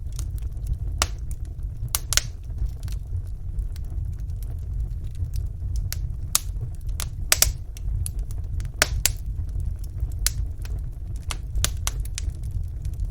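Wood fire burning in a fireplace and crackling: irregular sharp pops and snaps over a steady low rumble.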